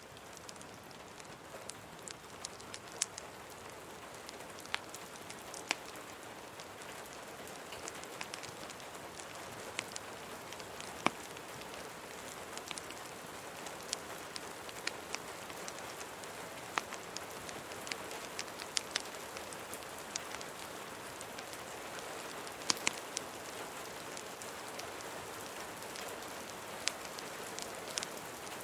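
Steady rain hiss mixed with the scattered sharp crackles and pops of a wood fire, the rain growing slightly louder over time.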